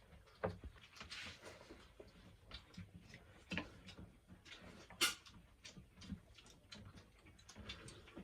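Faint scattered clicks and knocks of dishes and utensils being handled at a meal, with the sharpest knock about five seconds in.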